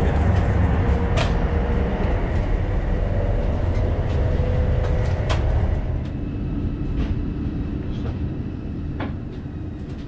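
Cabin noise inside a Deutsche Bahn ICE high-speed train in motion: a steady low rumble with scattered light clicks, growing quieter about six seconds in.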